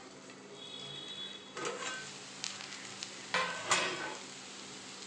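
Raw banana slices frying in oil in a steel kadai with a low sizzle. There is a metal clatter and scraping as the steel plate lid comes off and a spatula stirs the slices; the loudest clatters come about three and a half seconds in.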